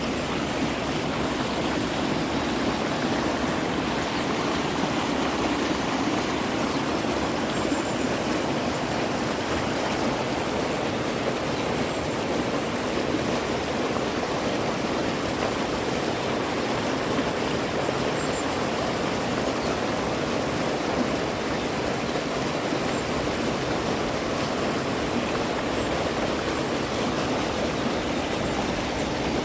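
Mountain valley stream running, a steady, even rush of water.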